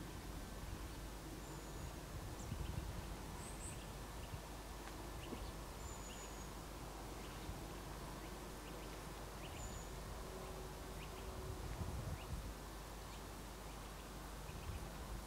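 Scattered short, high bird chirps and calls over a low, gusty wind rumble on the microphone.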